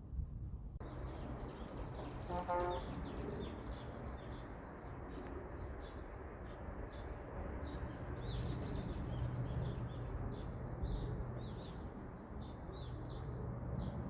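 A flock of small birds chirping busily all at once, starting abruptly about a second in, over a steady low rumble. A short lower-pitched call sounds once, about two and a half seconds in.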